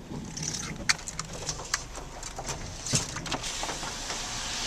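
Inside a moving car's cabin on a wet road: a steady low rumble of the car driving, with a few scattered sharp clicks and a hiss that grows louder toward the end.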